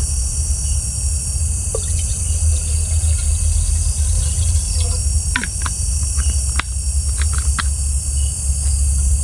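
Night insects and crickets chirping steadily over a low rumble, with scattered sharp crackles and pops from a wood campfire heating a pot of water.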